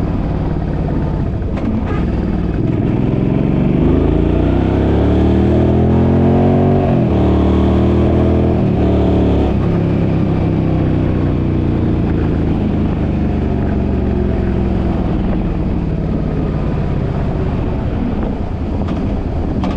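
A Suzuki's engine pulling away and accelerating: its pitch climbs for a few seconds, drops sharply at a gear change, climbs briefly and drops again at a second shift, then settles into steady cruising under road and wind noise.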